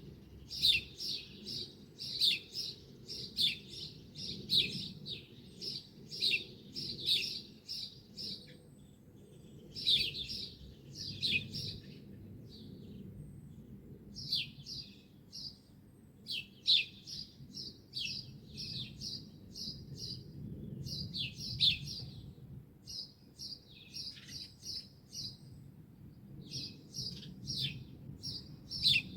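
Songbirds chirping: short phrases of quick, high chirps repeated again and again with brief pauses between them, over a low steady rumble.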